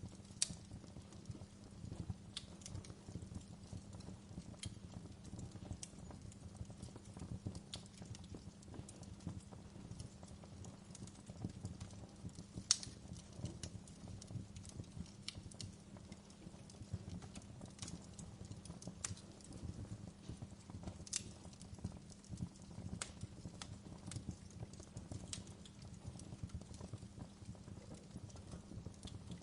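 Wood fire burning in a fireplace: a steady low rumble with sharp crackles and pops at irregular intervals, two of them louder, near the start and about halfway.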